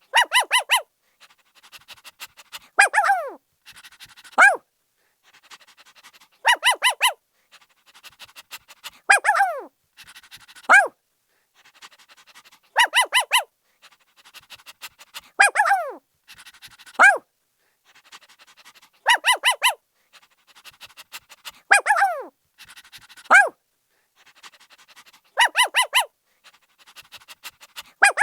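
Puppy barking: bursts of quick, high yips followed by yelps that fall sharply in pitch, the same cycle repeating about every six seconds.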